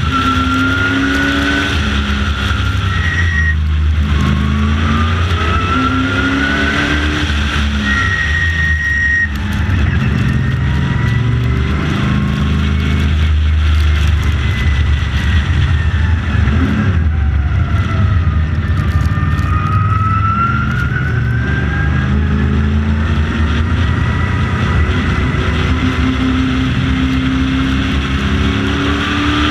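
Late model stock car's engine at racing speed, its revs climbing and falling again and again through gear changes and corners, with a high whine that rises and falls with the revs.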